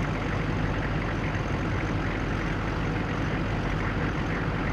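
A vehicle engine idling steadily, a low, even hum under a wash of noise.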